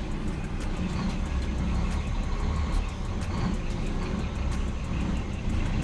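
Old Scania truck's diesel engine running steadily at low revs while the truck creeps under a semi-trailer.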